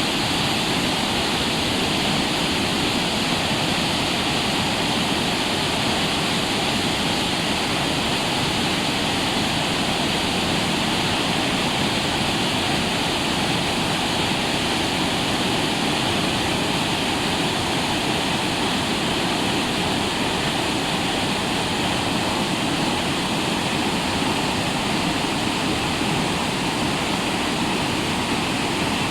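Waterfall, a loud steady rush of falling water with no let-up.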